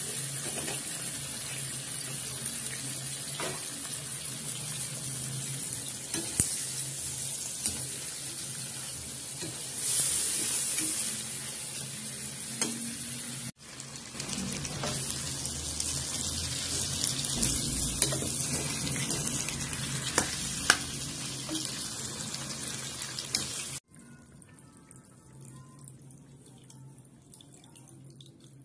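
Chicken pieces, tomato and diced potato sizzling in a frying pan: a steady, high hiss with a few sharp clicks. The sizzling breaks off for an instant about halfway, and about five seconds before the end it stops and everything goes much quieter.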